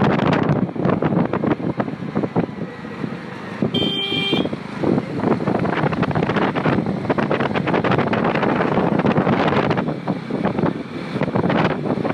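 Wind buffeting the microphone on a moving motorcycle, a loud rushing that swells and dips, with the bike and road beneath it. About four seconds in there is a brief beep, like a horn.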